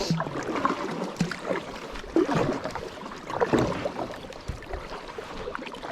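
Paddling a small paddle boat upstream: irregular paddle splashes in the river water and scattered light knocks against the hull.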